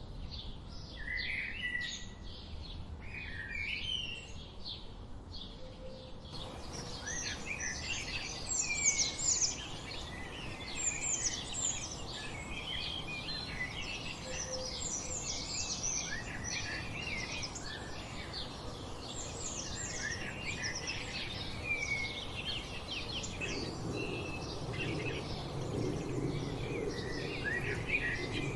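Wild songbirds singing and chipping. It opens with a fast run of evenly repeated chirps and a few slurred notes, then about six seconds in it changes abruptly to a denser chorus of many birds over a steady background hiss.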